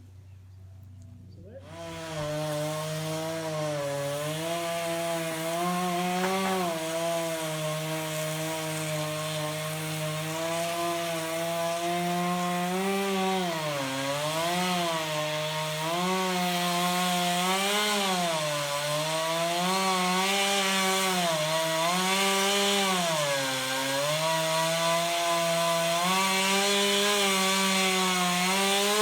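Two-stroke chainsaw engine running at high speed while cutting wood, its pitch dipping and recovering several times as it loads up in the cut. It comes in out of a low hum about a second and a half in and eases off right at the end.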